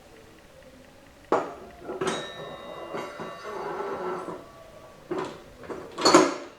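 Metal transmission parts (the input sun shell and gear assembly of a Ford 5R55S) clunking and ringing as they are slotted into the case. A sharp clunk comes about a second in, then a metallic ringing for a couple of seconds, and a louder clunk near the end.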